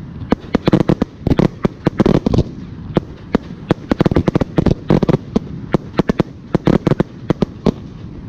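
Aerial firework shells bursting in a rapid barrage: a dense run of sharp bangs, several a second, coming in bunches.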